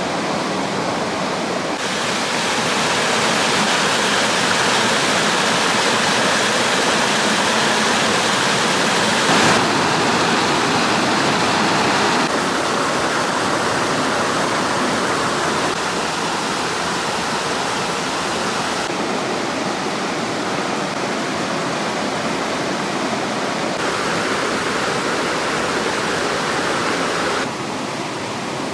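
Rushing water of a waterfall, a steady loud hiss whose tone and level change abruptly several times.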